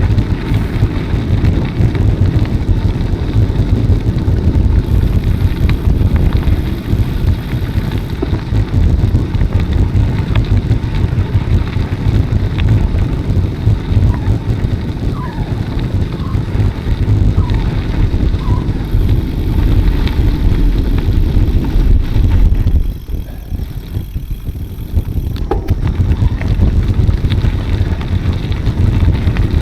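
Wind buffeting the microphone of a camera riding along on a moving bicycle: a loud, steady low rumble that drops away for a couple of seconds near the end, then returns.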